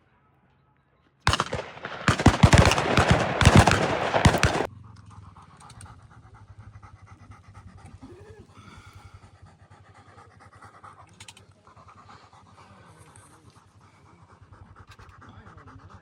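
A bird dog panting hard and fast: very loud and close for about three seconds starting a second in, then steady, quieter panting.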